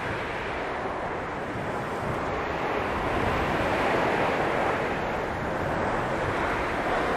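Blizzard wind blowing, a steady rushing noise that swells a little about halfway through and again near the end.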